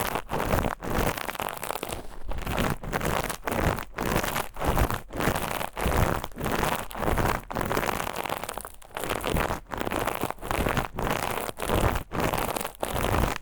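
Steel wool scrubbed against the ear of a binaural dummy-head microphone in rhythmic scratching strokes, about two a second.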